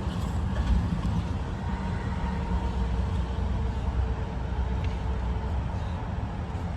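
Steady low rumble of a motor vehicle running, with road noise and a faint steady hum.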